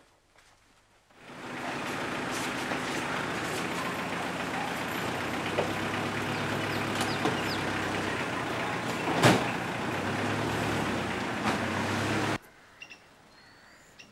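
SUV engine running, with a single sharp knock about nine seconds in; the sound cuts off suddenly near the end.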